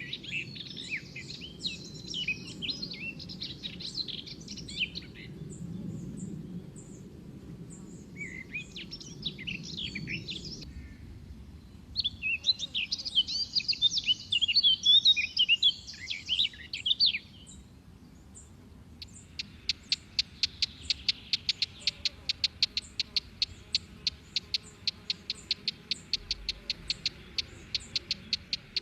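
Songbirds singing in several bursts of fast, varied warbling phrases, then, about two-thirds of the way through, a rapid even series of short repeated chirps, about five a second, that runs on. A low steady rumble sits under the first ten seconds.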